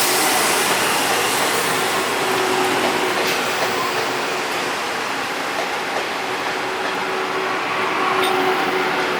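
Taiwan Railways EMU300 electric multiple unit running in on the rails as it arrives, a steady rushing wheel-and-rail noise that eases off gradually. A faint steady hum comes in during the second half, and there are a couple of sharp clicks.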